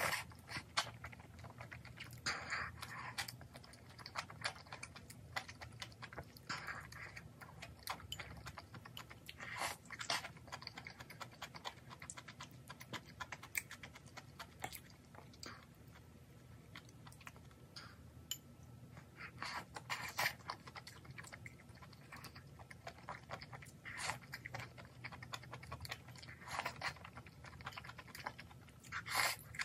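Close-miked wet chewing of mala soup with noodles and beef intestines: irregular clicks and smacks, with a few short slurps and sips of broth from a bowl.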